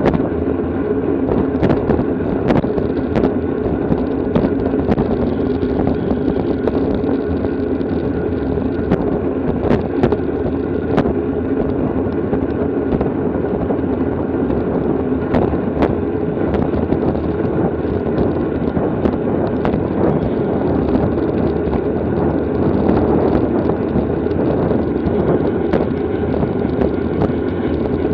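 Steady rush of wind and tyre noise, as heard by a camera riding on a racing bicycle in a criterium, with scattered short clicks.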